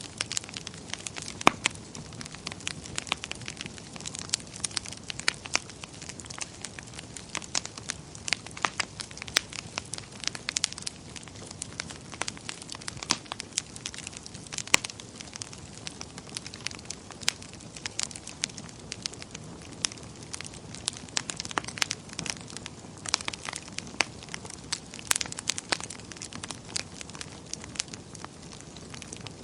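Wood fire burning in a fireplace, with frequent irregular sharp crackles and pops over a low steady hiss.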